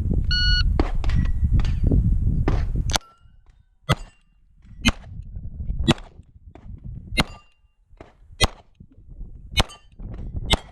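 An electronic shot-timer start beep about half a second in. After a loud low rumble, a slow string of 9mm Beretta 92 pistol shots follows, about one a second, with steel targets ringing as they are hit.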